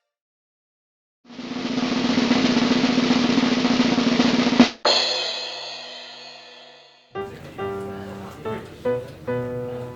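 Music: a snare drum roll swelling for about three seconds and ending in a single hit whose ring fades away, then guitar music begins near the end.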